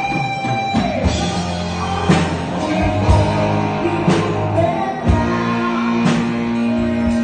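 A live band playing amplified dance music: a drum kit keeping a steady beat under bass and held electric guitar notes.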